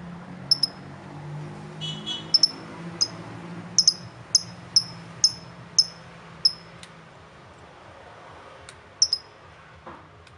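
A small bird chirping: a run of short, shrill chirps, about two a second in the middle stretch, with a few scattered ones before and after.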